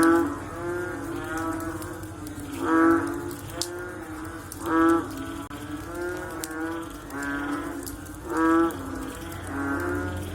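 A chorus of frogs calling after rain: repeated short, low, mooing calls, several animals overlapping, with a louder call every two to three seconds.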